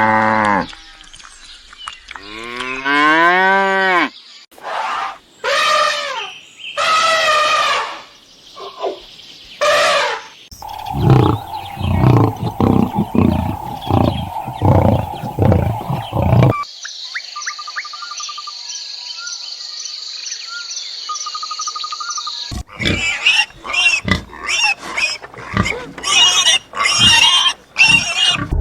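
A sequence of different animal calls, one clip after another: several long pitched calls in the first ten seconds, then rhythmic low pulses about two a second, then a steady high whine with faint trills, and near the end a busy run of quick calls and clicks.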